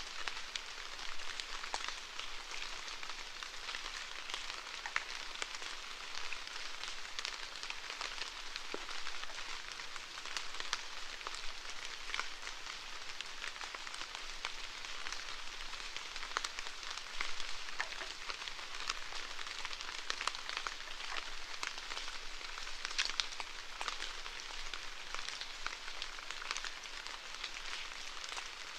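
Steady rainfall: an even hiss of rain dotted with many sharp ticks of individual drops.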